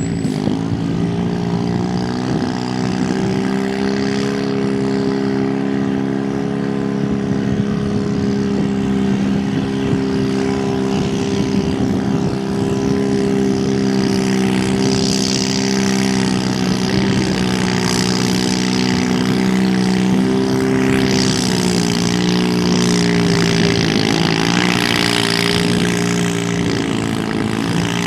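Pulling garden tractor or mini rod engine run at steady high revs under load during a pull. The pitch climbs right at the start and holds steady for about twenty seconds, then wavers and dips a few times near the end before steadying again.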